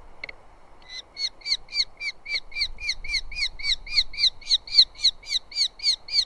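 Eurasian hobby calling: a fast, even run of sharp repeated "kew" notes, about four a second, starting about a second in and going on for some five seconds.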